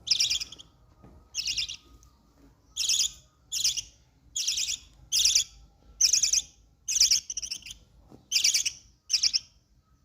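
Baby parrot's food-begging calls: short, harsh, raspy squawks repeated about once a second, around eleven in all.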